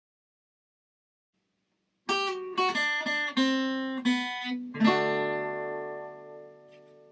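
Dead silence, then a short acoustic guitar phrase: about two seconds in, a few plucked notes, ending in a chord that rings out and fades away.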